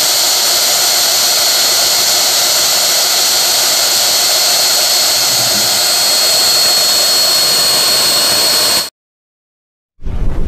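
Loud, steady rushing machine noise with one steady high whine over it, cutting off abruptly near the end.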